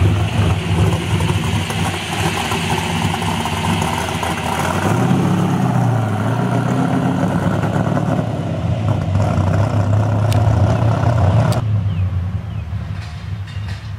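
1968 Pontiac Firebird's engine running loud as the car drives past and pulls away, its pitch rising and falling about five seconds in. Near the end the sound drops suddenly to a much quieter engine.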